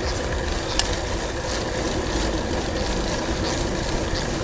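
Steady low wind rumble on the microphone of a moving bicycle, with rolling road noise.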